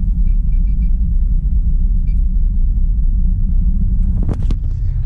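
Excavator's diesel engine idling steadily while it warms up after a cold start. A few faint short beeps come early, and two sharp clicks sound about four seconds in.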